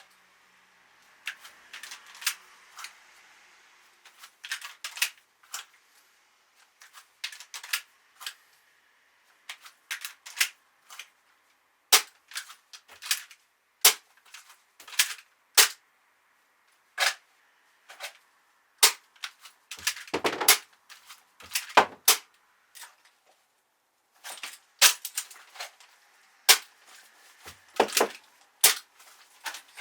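Sharp, irregular clicks and clacks of airsoft rifle and pistol handling during reload and transition drills: magazines pulled from belt pouches and seated, actions worked and triggers pressed, with a light hiss in places.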